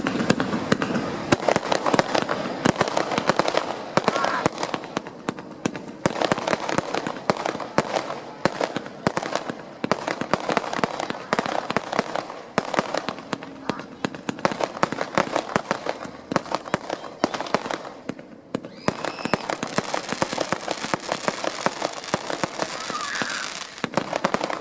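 Fireworks display: a dense, continuous run of bangs and crackles, easing off briefly about three-quarters of the way through before building again.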